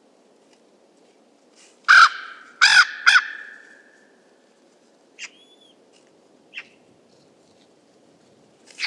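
Common raven calling: three loud, harsh croaks in quick succession about two seconds in, followed by a few faint clicks.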